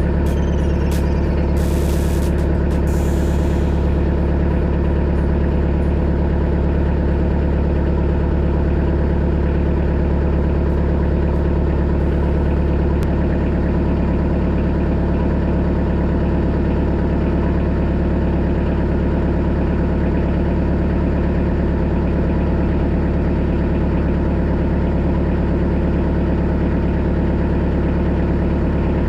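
Kubota B3000 compact tractor's three-cylinder diesel engine running at a steady speed, a low constant drone that holds the same pitch throughout.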